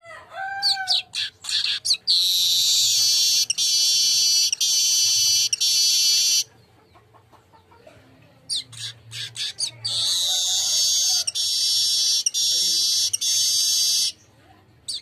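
Manyar kepala emas weaver bird singing: a few short sweeping notes, then a long harsh buzzing sizzle of about four seconds. After a short pause there is a burst of chatter, then a second long buzzing sizzle.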